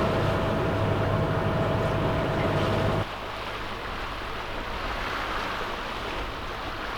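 A yacht's engine running with a steady hum and water noise. About three seconds in it cuts off abruptly, leaving a quieter steady wash of water and wind.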